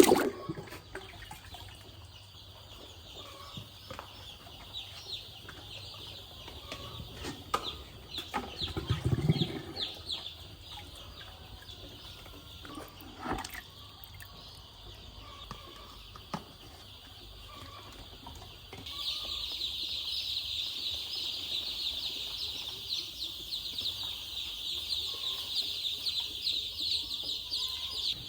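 A crowd of young chicks peeping continuously in short, high, rapid cheeps, getting louder about two-thirds of the way through. A few brief knocks and a low thump come in the first half.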